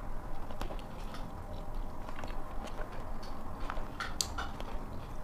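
A person eating spaghetti close to a clip-on microphone: chewing and mouth noises with scattered short, soft clicks, the most prominent about four seconds in.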